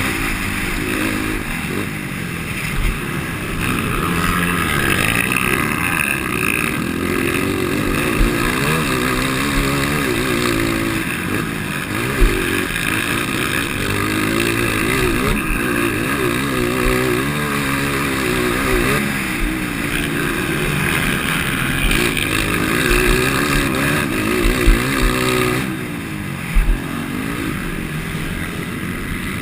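230 cc motocross bike engine, stock with an aftermarket exhaust header and tip, revving up and down over and over as it is ridden hard around a dirt track. A few short knocks stand out above the engine.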